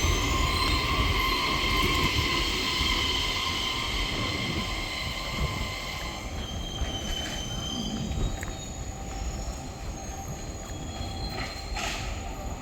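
Tilt Train pulling in at low speed, its wheels and brakes squealing in several steady high tones over the rumble of the cars. The pitch of the squeal shifts about halfway through, and the train grows gradually quieter as it slows.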